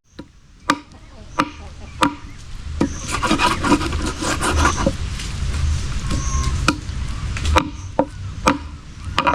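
Knife chopping on a wooden board in steady strokes about every 0.7 s. In the middle there is a stretch of scraping and rubbing.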